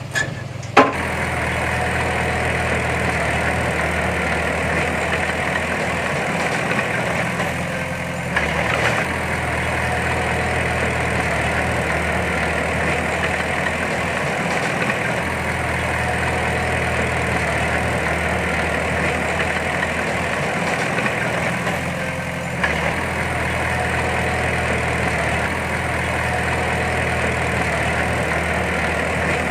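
Heavy diesel engine of earthmoving machinery running steadily. There is a sharp clank just under a second in and lighter knocks about 8 and 23 seconds in, where the engine note shifts.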